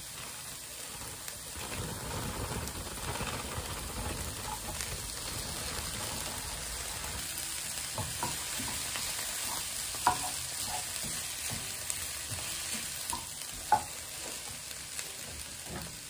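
Diced onion and sweetcorn sizzling in olive oil in a frying pan while being stirred with a wooden spoon, a steady high hiss with a few sharp knocks, the loudest about ten and fourteen seconds in.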